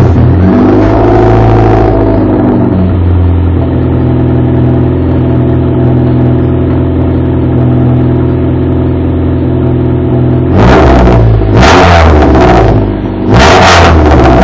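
Car engine with a loud exhaust catching, running at a high idle for about two seconds, then settling to a steady idle. It is revved three times in quick succession near the end.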